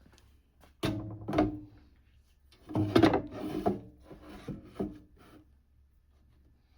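A handful of separate knocks and clunks from tools and the workpiece being handled and set up: one about a second in, a louder cluster around three seconds in, and a few lighter ones near five seconds, some with a short ring.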